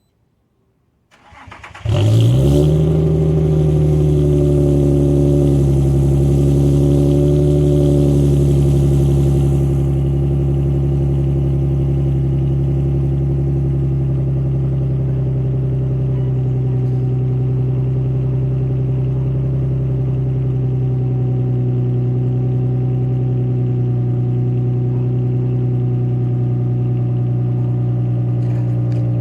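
Nissan 350Z's 3.5-litre V6 cold-started through an exhaust with no resonator and a muffler delete: the starter cranks briefly about a second in, the engine catches and settles into a loud, steady idle that eases slightly about ten seconds in.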